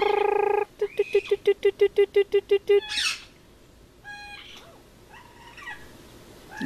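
Parrot calling: a long, steady squawk ends just after the start, followed by a fast run of about a dozen repeated squawks over two seconds, then one harsh screech. Fainter, shorter calls follow near the end.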